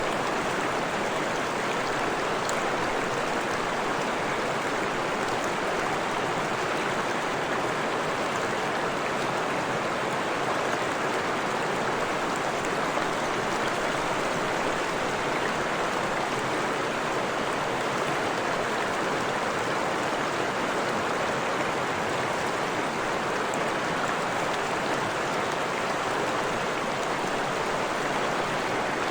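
Freshwater stream running: a steady, unbroken rush of flowing water, with a few faint high splashes.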